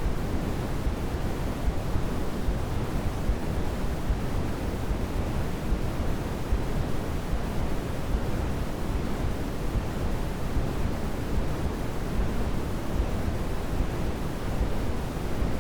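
Steady baby sleep-aid white noise: an even, unchanging rushing hiss with more weight in the deep end than in the treble.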